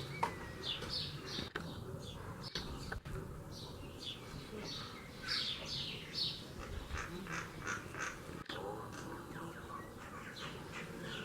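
Small birds chirping in a busy, continuous chorus of short, high chirps that slide downward, several a second.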